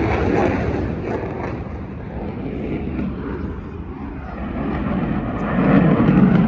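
Airplane flying over during an air show, a continuous engine rumble that eases off mid-way and swells louder again near the end.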